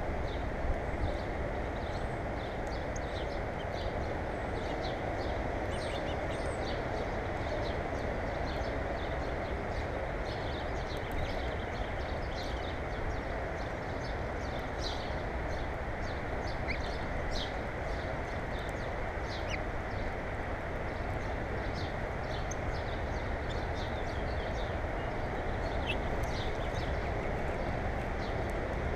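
Small birds giving short, high chirps and chips many times over a steady low rushing background noise.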